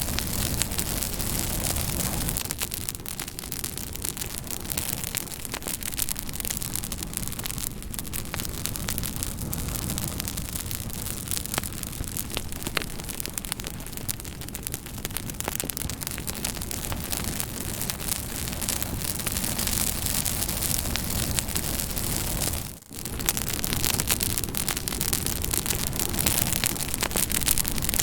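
Campfire crackling: a steady rush of burning wood thick with small snaps and pops. About 23 seconds in the sound drops out for a moment and then comes back.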